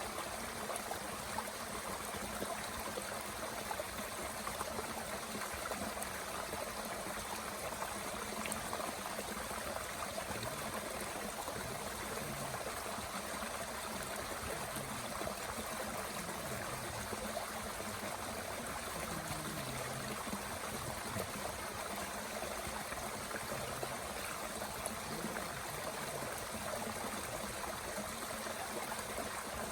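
Mountain stream running steadily, with a few faint crackles from a small wood fire burning in a Bushbox twig stove.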